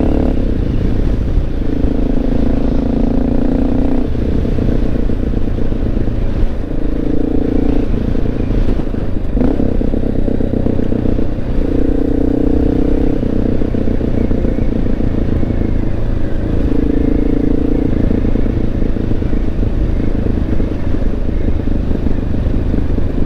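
Honda XR650L's single-cylinder engine running as the motorcycle rides along, over a constant low rumble. A steady engine note comes to the fore in stretches of a second or two, several times.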